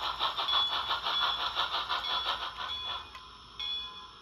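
HO scale steam locomotive's DCC sound decoder giving a rapid, even steam chuff, with the Rivarossi motor's mechanical rattle, while the model crawls at speed step 2. The chuffing stops about three seconds in, and a locomotive bell strikes once near the end.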